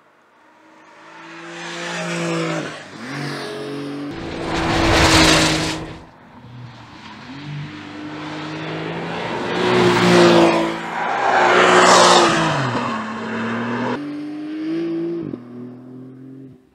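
Porsche 911 flat-six engine accelerating, its note climbing and then dropping back several times as it revs and shifts. There is a loud rushing noise about four to six seconds in, and again around ten to twelve seconds in.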